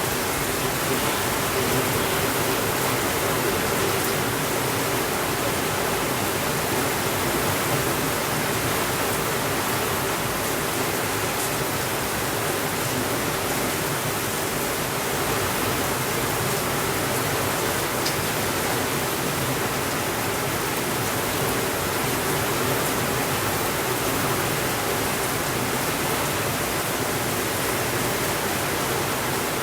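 Steady rainfall, an even hiss that holds at the same level throughout, with a few faint ticks scattered through it.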